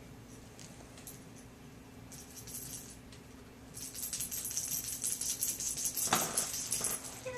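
Small bell jingling and rattling in shaken bursts. It is faint about two seconds in and louder from about four seconds on, with one sharper knock about six seconds in.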